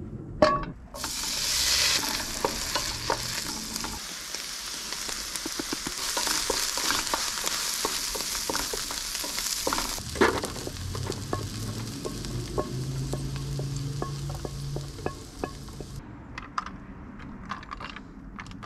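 Butter and canned corn frying in a hot pan: a steady sizzle with clicks and scrapes of stirring, and a knock about ten seconds in. Near the end the sizzle stops, leaving soft taps and rustles as shredded mozzarella is mixed into the corn in a foil tray.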